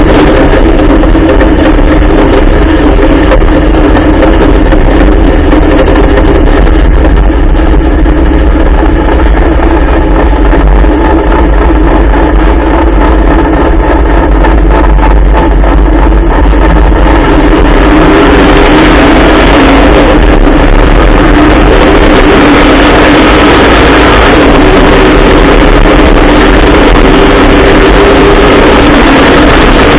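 Trophy truck's Dart 363 Coyote Ford V8 running loud and steady under way, its note growing fuller and harsher from a little past halfway.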